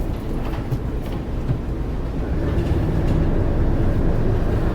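Twin diesel engines of a 60-foot motor yacht rumbling at low speed while docking, with a few light knocks in the first second and a steadier higher tone joining about two seconds in.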